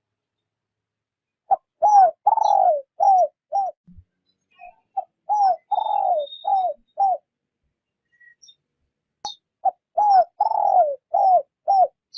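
Spotted dove cooing gently: three phrases a few seconds apart, each a short lead note followed by about four low, rounded coos.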